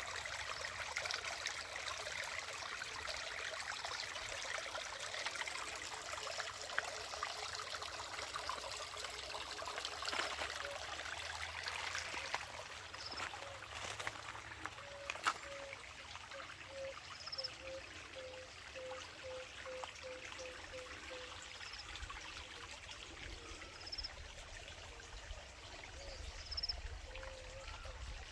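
Water trickling and running steadily, with a few short high chirps and, midway, a quick run of low peeps.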